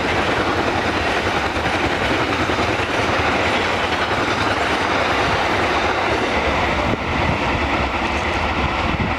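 Train carriages passing close by: the steady rolling noise of steel wheels on the rails.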